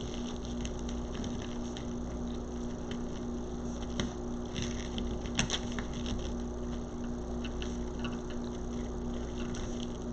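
Soft rustling and light clicks of ribbon being handled and twisted onto a wreath board, over a steady low electrical hum.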